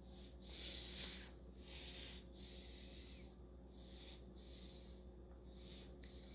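Soft breaths close to the microphone, two longer ones in the first couple of seconds and fainter ones later, over a low steady electrical hum.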